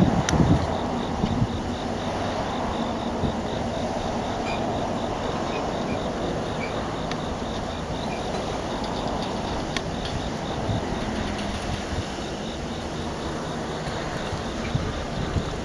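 Freight train rolling past with a steady rumble of wheels on rail.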